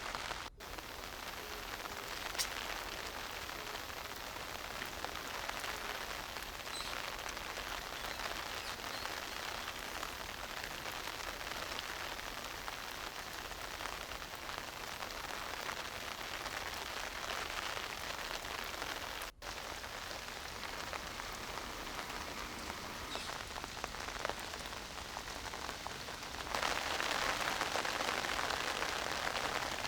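Steady rain falling, with scattered drops ticking, cutting out for an instant twice. Near the end the rain grows noticeably louder.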